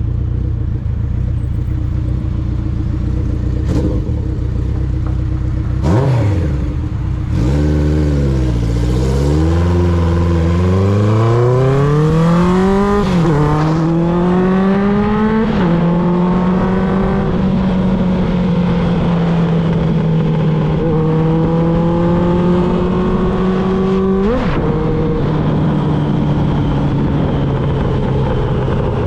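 1995 Honda CB750 Nighthawk's air-cooled inline-four through a Vance and Hines 4-into-1 exhaust. It runs at a steady low note at first, then pulls away with rising revs. Upshifts come about halfway through and once more near the end, with steady cruising between them.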